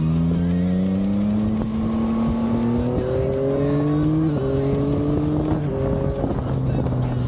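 Yamaha Tracer 9's inline three-cylinder engine accelerating hard, its pitch climbing and then dropping three times as it shifts up through the gears.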